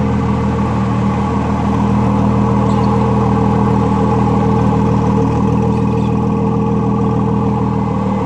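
2017 Ford GT's 3.5-litre twin-turbo EcoBoost V6 idling steadily through its exhaust, at an even pitch and level.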